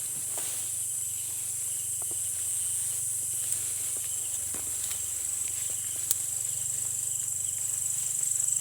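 Night insects, crickets, calling in a steady high-pitched chorus over a faint low hum, with a few faint clicks and one sharper tick about six seconds in.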